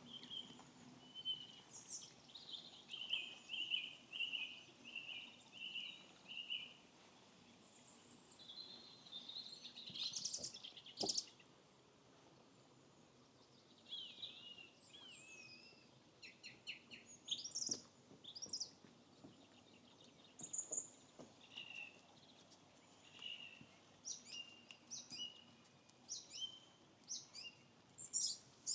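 Several small birds singing and calling: a run of repeated chirps, short trills and whistles, one after another, over a faint steady background. A single sharp knock sounds about eleven seconds in.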